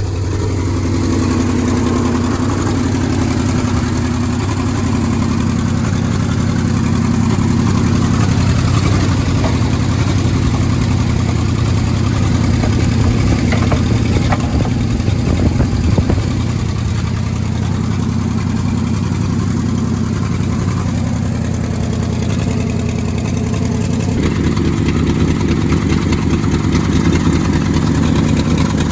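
1971 Ford Highboy truck engine idling steadily after a cold start in below-zero cold. The engine note changes abruptly about 24 seconds in.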